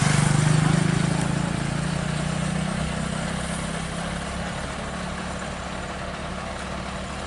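Scania R580 truck's V8 diesel engine running, louder for about the first second, then easing down to a steady idle.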